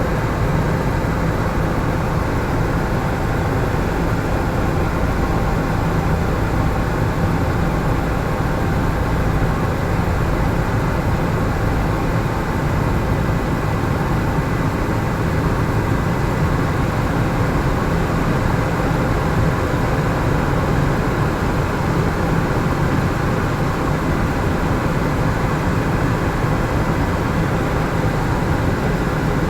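Helicopter engine and rotor noise, a steady low drone that holds unchanged throughout.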